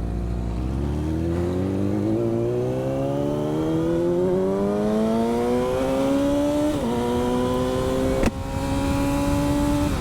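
Vehicle engine accelerating. Its pitch climbs steadily for about seven seconds, dips at a gear change, then climbs again, with one sharp click about eight seconds in.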